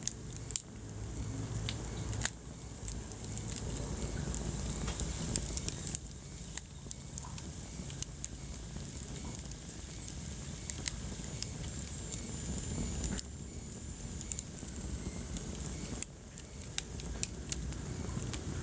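Wood fire burning in a fireplace: irregular sharp crackles and pops over a steady low rush of flame. A faint high whistle comes in about midway.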